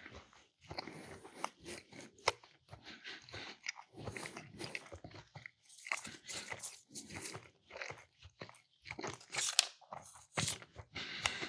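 Close-miked chewing and biting of a meatball sub and mac and cheese: irregular wet mouth sounds with crunches and lip smacks.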